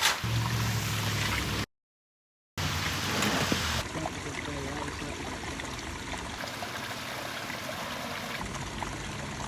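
Water from a pondless waterfall splashing and trickling steadily over rock. It is preceded in the opening second and a half by a low engine hum, then a brief cut to silence.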